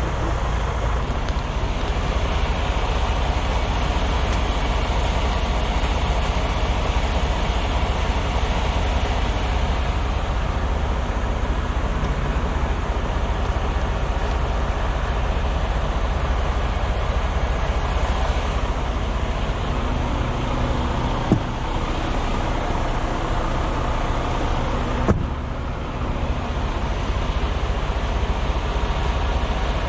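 Semi-truck's diesel engine running steadily, a constant low rumble, with two short sharp clicks about two-thirds of the way through, a few seconds apart.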